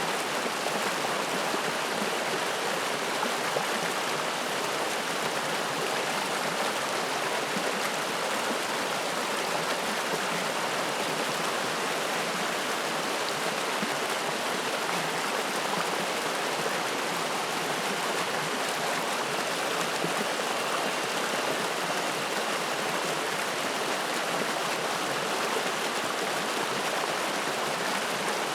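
Spring-fed mountain stream flowing, a steady, unbroken rush of water.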